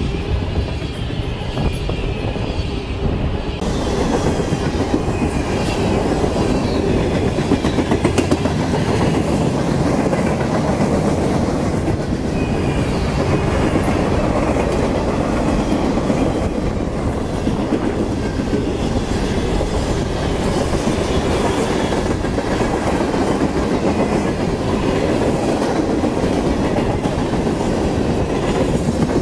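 Freight cars of a CSX manifest train, tank cars and boxcars, rolling past steadily: a continuous rumble with the wheels clicking over the rail joints.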